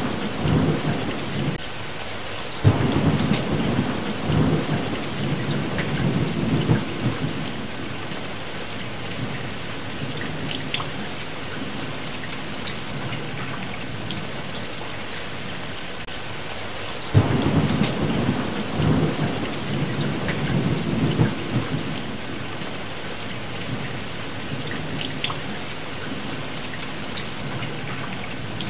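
Steady heavy rain with rolling thunder: a rumble dying away near the start, then two more that break suddenly, about three seconds in and again about seventeen seconds in, each rolling on for several seconds.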